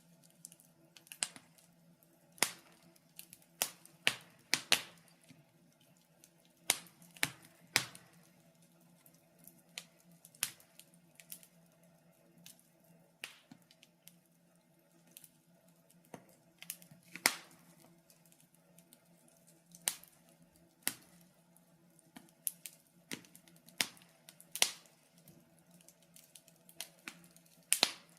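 Wood fire crackling in a fireplace: irregular sharp pops and snaps, one to a few a second, over a faint steady low hum.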